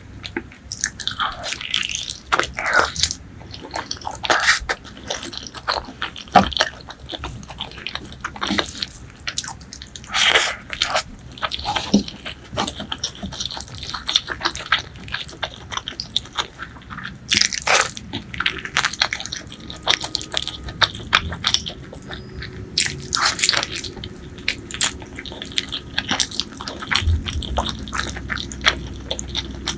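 Close-miked eating sounds of spicy pork leg curry with white rice being chewed and bitten: irregular mouth smacks and clicks.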